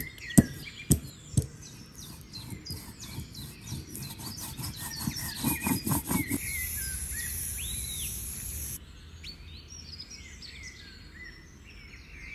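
Small birds chirping in the background throughout, with a few sharp taps in the first second and a half and a quick run of taps around the middle, followed by a high hiss lasting a couple of seconds.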